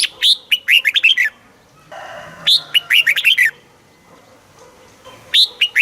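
Red-whiskered bulbul singing: three short phrases of quick whistled notes, each about a second long, with pauses of one to two seconds between them.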